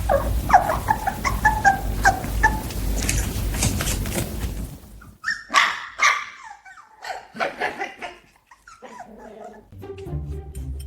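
Dog barking and yipping in short repeated calls, growing louder and more frequent about halfway through, with a low rumble under the first half.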